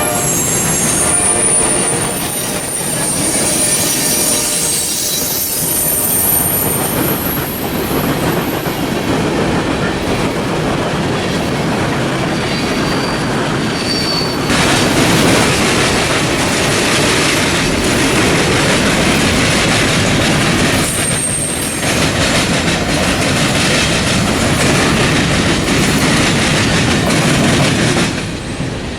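Freight train rolling past, its cars clattering over the rail joints with brief high wheel squeals now and then. A locomotive horn blast dies away about a second in.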